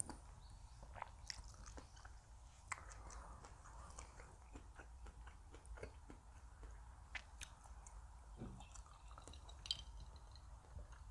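A person chewing food close to the microphone: faint, irregular small clicks and crunches of mouth sounds.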